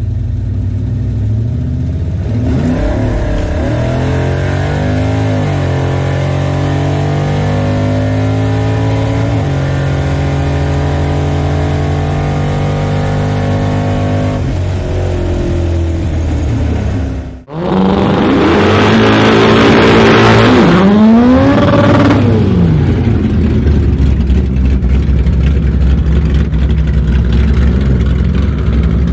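Dodge Coronet's big-block Mopar V8 pulling through the gears, its pitch climbing and stepping at each shift. After a sudden cut it is revved hard in a burnout, louder, with a rushing hiss over the engine, then runs on steadily at high load.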